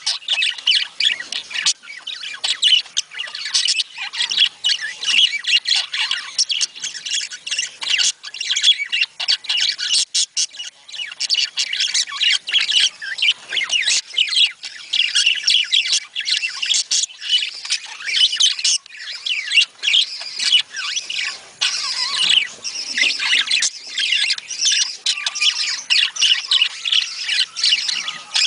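A flock of budgerigars chattering and squawking continuously, many rapid overlapping warbles and chirps, the kind of breeding-season chatter played to stimulate budgies to mate.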